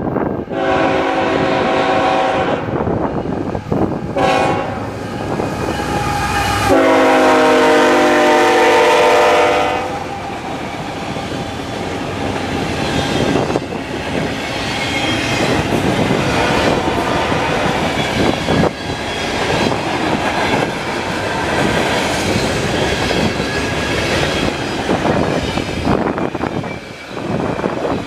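Multi-note air horn of a Canadian National GE ET44AC diesel-electric locomotive sounding three blasts: one of about two seconds, a short one, then a longer, louder one of about three seconds. Then the freight train rolls past with wheels clacking over the rail joints, under heavy wind noise on the microphone.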